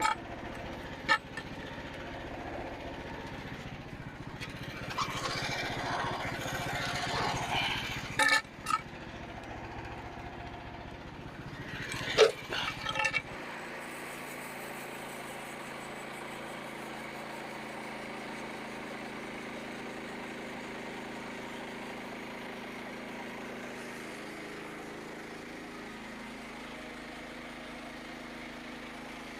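An engine running, with several sharp knocks over it in the first half. About 13 seconds in the sound changes to a steady, even engine hum.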